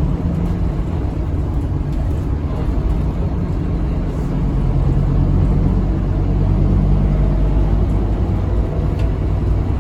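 Scania K310UB city bus under way, heard from on board: the DC9 five-cylinder diesel gives a steady low drone over road noise. The drone swells a little past the middle.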